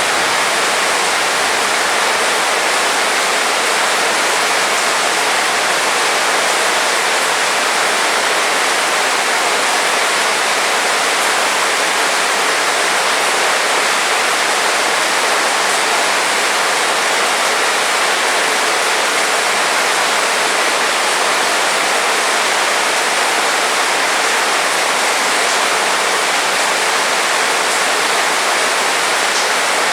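Heavy rain falling steadily as a dense, unbroken hiss.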